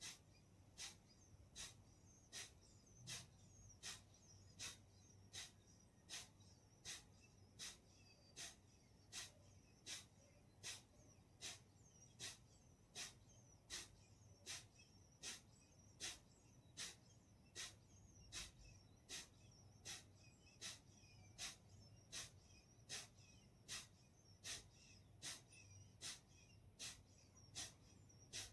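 Kapalbhati breathing: short, forceful exhalations through the nose, faint and evenly paced at a little more than one a second.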